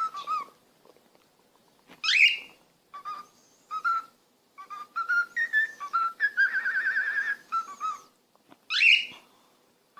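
Pet parrot whistling: a string of short whistled notes, two quick rising whistles about two seconds in and again near the end, and a wavering trilled note held for about a second in the latter half.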